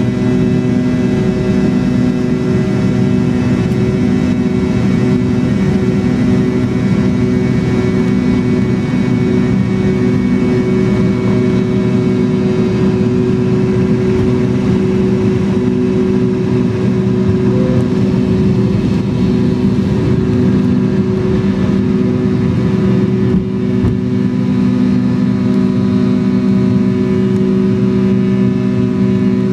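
Jet engine noise inside the cabin of a McDonnell Douglas MD-83, heard from a seat close to its rear-mounted Pratt & Whitney JT8D turbofans: a steady, loud drone with several held tones over a dense rumble.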